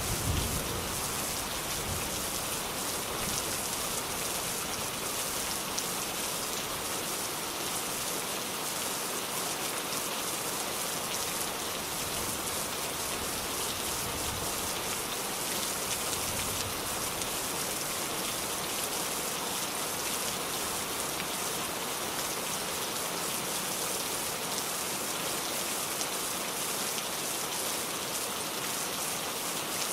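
Steady rain falling on a surface, a dense even hiss with individual drops pattering through it.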